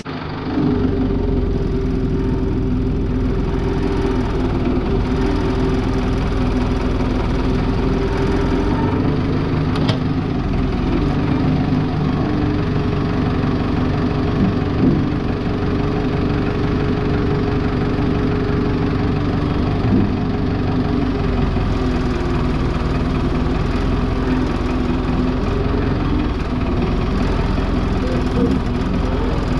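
Large diesel engine idling steadily, with a few faint knocks from work going on around it.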